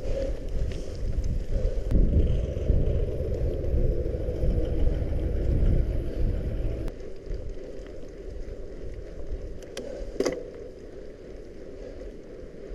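Bicycle riding over a wet dirt trail: tyre and frame rumble mixed with wind buffeting the microphone. The rumble eases about seven seconds in, and a sharp click comes about ten seconds in.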